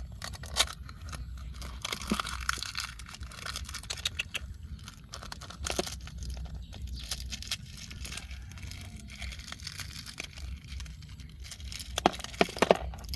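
Dry plant debris being torn and crumpled by hand, as when leaf litter or bark is pulled apart while searching for millipedes. It is an irregular crackling and rustling with a few sharp snaps near the end.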